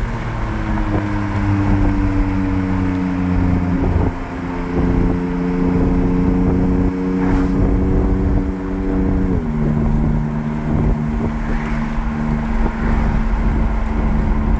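2021 Porsche 718 Cayman GT4's flat-six running through Soul over-axle exhaust pipes, heard from the cabin with the windows down, at a steady engine speed in third gear as the car slows. A little over nine seconds in the engine note drops in pitch as it shifts up to fourth, with road and wind noise underneath.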